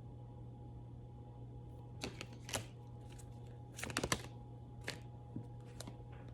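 Tarot cards being handled and shuffled: a few short, crisp snaps and rustles starting about two seconds in, with a quick cluster about four seconds in, over a faint steady hum.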